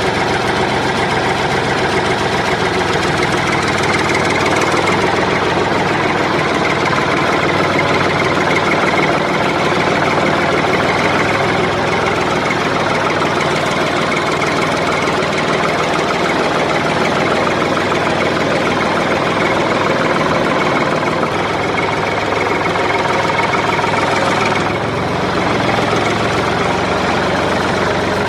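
Tractor engine idling steadily with a knocking beat, a dubbed-in sound effect.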